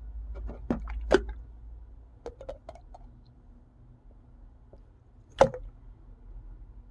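Slime being squished and worked, giving sharp sticky pops and clicks: several in the first second or so, a few more around two and a half seconds in, and one loud pop about five and a half seconds in.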